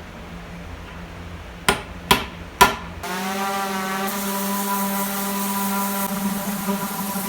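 Three sharp knocks about half a second apart over a low steady hum. About three seconds in, the hum cuts off and a steady pitched drone with many overtones takes over.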